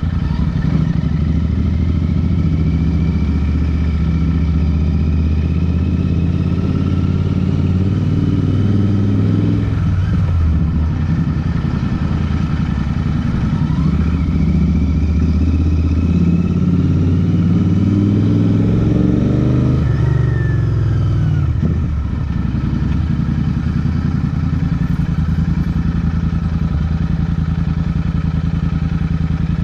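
Royal Enfield Interceptor's parallel-twin engine running while the motorcycle is ridden at low speed, its note falling and rising with the throttle several times, most clearly about 20 seconds in.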